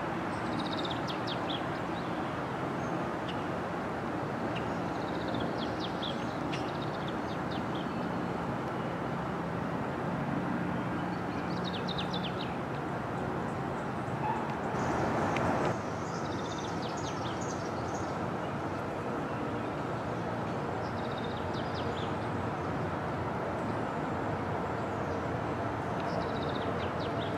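A songbird repeating a short, high song phrase about every five seconds over a steady rushing background noise.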